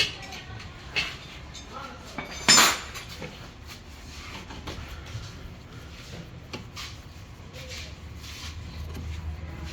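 Metal tools and parts clinking and clanking, with one loud metallic clang about two and a half seconds in and a few lighter ticks after it; a low hum comes up near the end.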